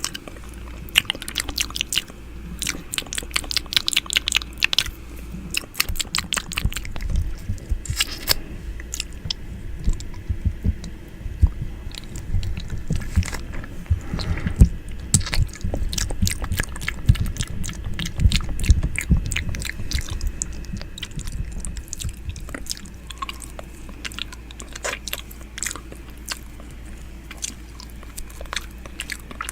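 ASMR 'ear eating' mouth sounds made close against a microphone: a dense run of wet clicks, smacks and nibbling sounds, with a low rumble through the middle stretch.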